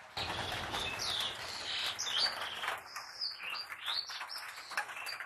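Several birds chirping, with many short rising and falling notes overlapping, over a broad rushing hiss that sets in abruptly at the start and thins out about three seconds in.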